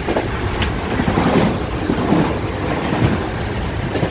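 Steady running noise of a moving Indian Railways passenger train, heard from inside a general-class coach, with a couple of sharp clicks, one about half a second in and one near the end.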